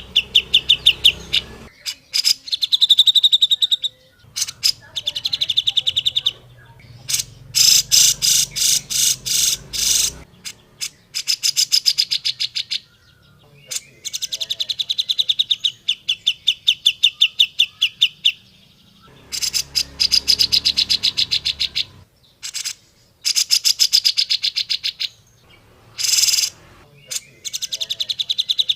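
Grey-cheeked bulbul (cucak jenggot) calling in fast chattering phrases. Each phrase is a rapid run of repeated notes lasting one to three seconds, with short pauses between phrases.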